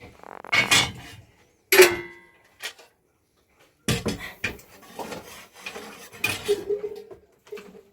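Clattering and scraping of metal pots and utensils being handled, with a loud ringing metallic clang about two seconds in.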